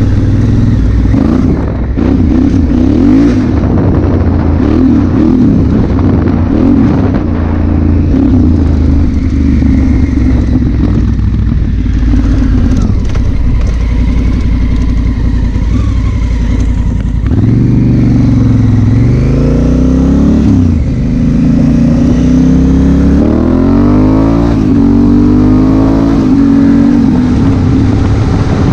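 Honda Africa Twin CRF1000L's parallel-twin engine running under way through an Arrow exhaust. The engine holds a steady pitch for the first half, then its pitch rises and falls repeatedly over the second half as the rider works the throttle and gears.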